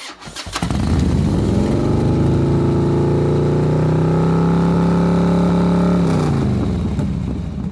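Motorbike engine revving up, holding at a steady pitch, then dropping and fading away about six seconds in.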